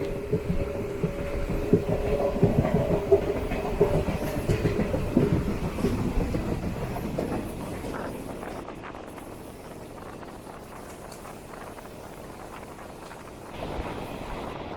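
DEMU train running on the rails, heard from aboard: wheels clicking over rail joints under a steady drone, louder in the first half, easing off around the middle and picking up again near the end.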